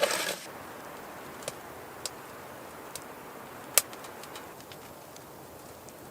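Food cooking: a steady sizzle with scattered small pops, and one sharp pop about two-thirds of the way in. A louder rush of noise cuts off in the first half-second.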